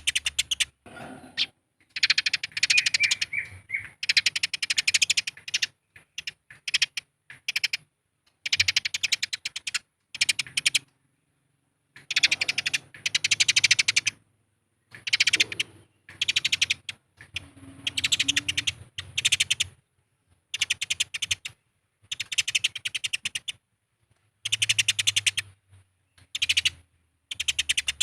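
Eurasian tree sparrows chattering in a fight: rapid, dry runs of chirps in bursts of a second or two, with short pauses between.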